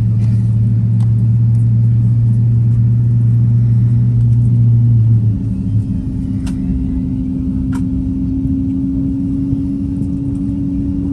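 Airliner jet engines running with a loud steady rumble. About five seconds in a strong low hum stops and a higher tone takes over, rising slowly.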